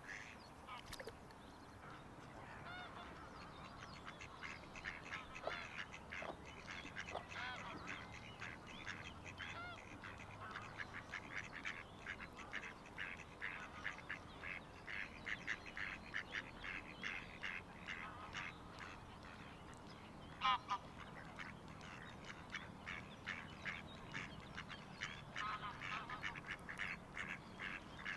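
A flock of waterbirds calling: many short calls overlap in a continuous chatter that thickens a few seconds in, with one louder call about twenty seconds in.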